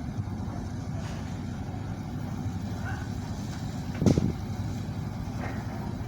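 Steady low engine rumble, with one sharp knock about four seconds in.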